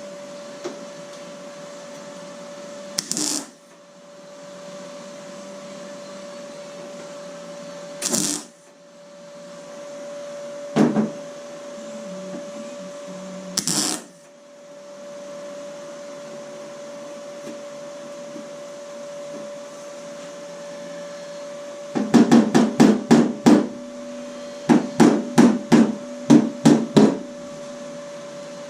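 Car-body metalwork on a steel door: a steady machine hum underneath, a few separate bursts of about half a second each, then a quick run of about a dozen short, loud bursts near the end.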